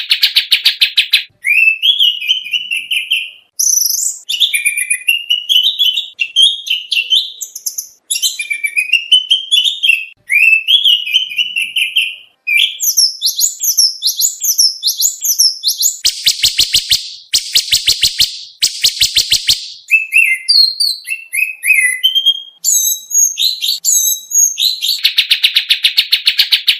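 Oriental magpie-robin (kacer) song recording, a varied stream of phrases. A fast repeated trill stops about a second in, then come phrases of quick rising whistled notes. About two-thirds of the way through, three loud, rapid, harsh trills follow, and the fast trill returns near the end.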